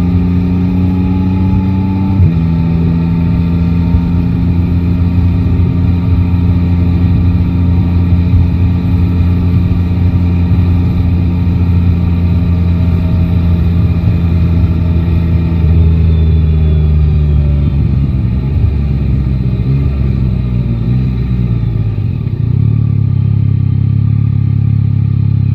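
Yamaha Tracer 9 GT's three-cylinder engine running under way at a steady pitch, dropping slightly about two seconds in. About two-thirds of the way through the engine eases off and its pitch falls, then it settles into a steady lower note near the end.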